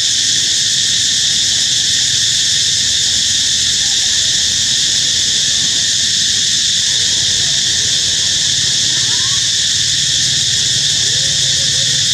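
Steady, loud, high insect drone, typical of a cicada chorus in tropical forest. A few faint, short calls rise and fall through it in the second half.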